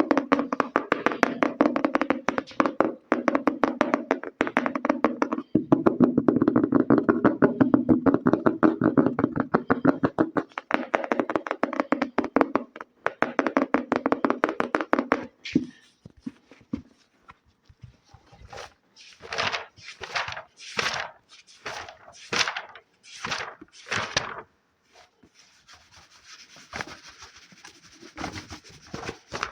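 ASMR fast tapping on a book, a very rapid run of taps for about fifteen seconds. Then come slower separate scratching strokes, about two a second, and near the end a steady rub across the surface.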